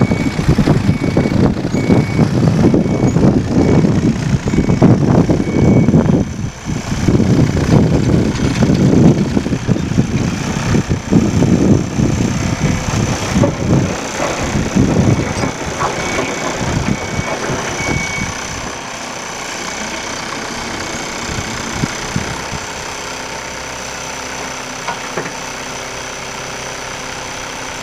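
Diesel engine of an ASV 4810 tracked loader running hard with rising and falling revs, with an intermittent high beeping tone. About 18 seconds in it drops to a steady idle.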